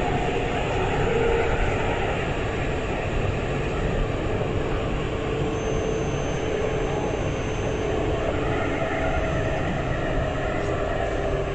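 Alstom Citadis 402 tram running along the line, heard from on board: a steady rumble of wheels on rail with a faint motor whine that drifts slightly in pitch.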